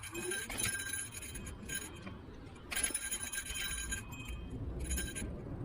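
Metallic jingling and rattling from something loose on an electric scooter in motion, in several irregular bursts that start and stop abruptly as it goes over bumps, over the low rumble of the ride.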